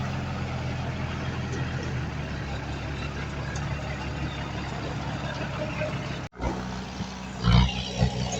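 Heavy diesel earthmoving machinery running steadily. About six seconds in the sound cuts out for an instant and comes back with the engine running, and two heavy thumps come near the end.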